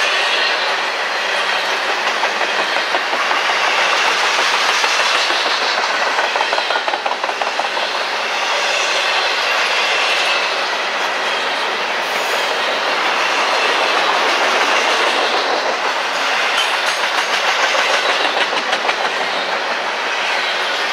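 Double-stack intermodal container cars rolling past: a steady rush of steel wheels on rail, with stretches of rapid clickety-clack as the wheel sets cross rail joints, about a third of the way in and again near the end.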